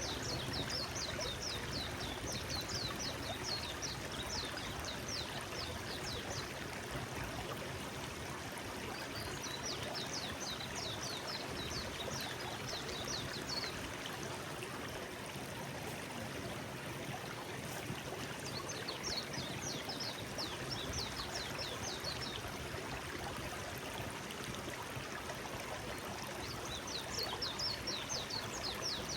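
Forest stream flowing steadily. A songbird sings four bouts of rapid, high, repeated notes over it.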